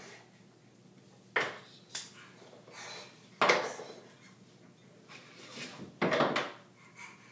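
A handful of sharp knocks and clatters in a small room, the loudest about three and a half and six seconds in.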